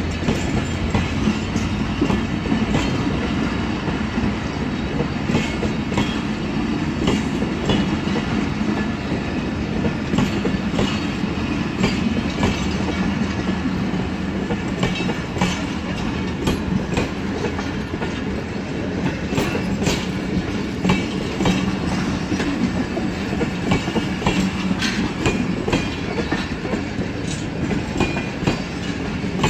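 Passenger train coaches rolling past, a steady rumble of wheels on rails with frequent clicks and clatter as the wheels pass over rail joints.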